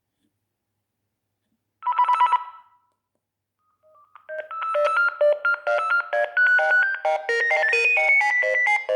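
Sagem myX-1 Twin mobile phone playing a ringtone: a short trilling beep about two seconds in, then a melody with several notes sounding at once starts about four seconds in and keeps going.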